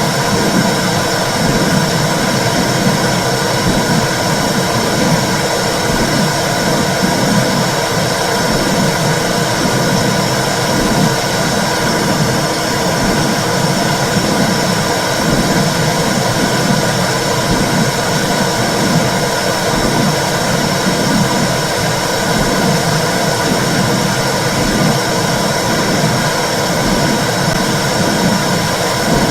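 Womb sound played to soothe a baby: a loud, steady whooshing rumble with a rhythmic low pulse about once a second, like blood flow and a heartbeat heard from inside the uterus.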